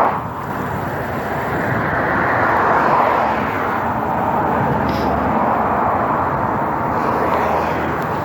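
Steady rushing noise of riding along a road: wind and tyre/road noise picked up by a phone microphone, swelling slightly a few seconds in.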